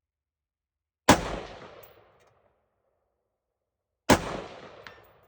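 Two rifle shots about three seconds apart from a Sig Sauer M400 AR-15-style rifle. Each is a sharp crack that trails off over about a second.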